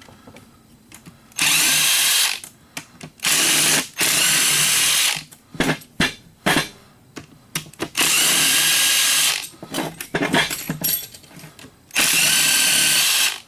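Power drill running in several short bursts, each about one to two seconds long, while a coffee grinder is taken apart. Small clatters and knocks of metal parts come between the bursts.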